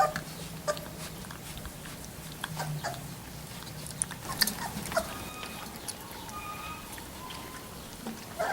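Three-week-old Labrador Retriever puppies giving short, high squeaks and whimpers, with scattered small clicks.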